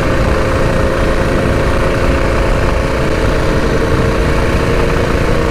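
Predator 212 single-cylinder four-stroke engine on a mini bike running steadily at a held quarter-to-half throttle while riding. The engine is still being broken in.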